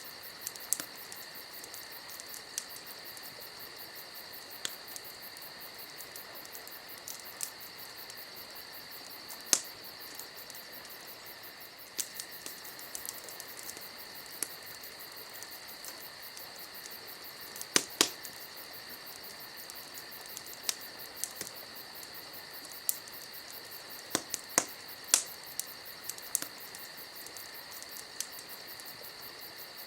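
Campfire crackling, with scattered sharp pops from the burning wood; the loudest is a close pair about two-thirds of the way through. Under it runs a steady high chirring of crickets.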